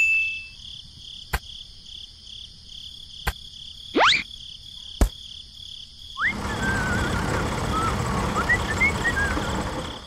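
Nature ambience of insects chirping in a steady pulsing trill, broken by a few sharp clicks and a rising swish about four seconds in. From about six seconds a noisier outdoor ambience takes over, with birds chirping.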